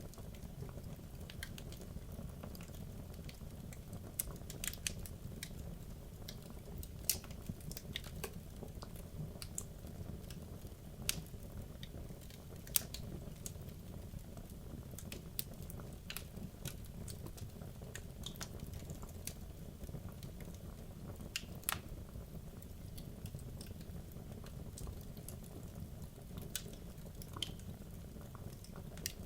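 Wood logs burning in a fireplace: a steady low rumble of the flames with irregular sharp crackles and pops from the burning wood.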